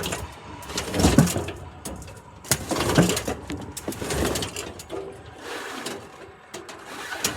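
A heavy garden tractor being slid across an aluminum diamond plate deck: irregular scraping with sharp metal knocks and clicks, in uneven surges. Wind buffets the microphone in low rumbling gusts.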